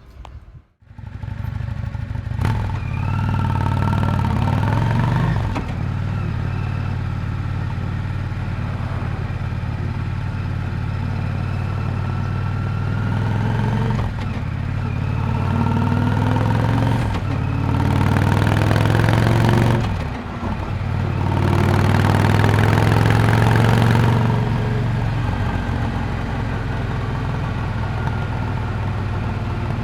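Exhaust of a 1998 Yamaha Drag Star 400 Classic's V-twin engine while riding, coming in after a brief gap near the start. It swells louder and rises in pitch three times as the bike accelerates, with short dips in between, then settles to a steadier cruise near the end.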